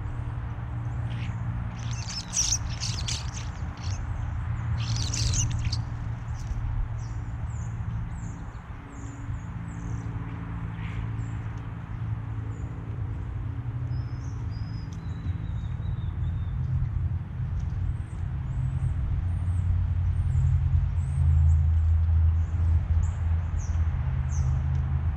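Songbirds at a feeder giving many quick high chirps throughout, with two louder, harsher calls in the first six seconds. A steady low rumble runs underneath.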